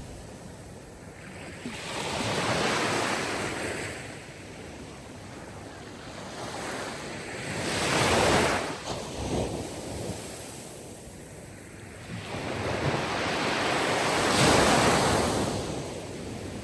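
Sea surf: waves breaking and washing in, three swells about every six seconds with a softer wash between them.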